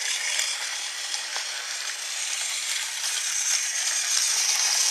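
Battery-powered TrackMaster Thomas toy train running along its plastic track, a steady high, rattling whir.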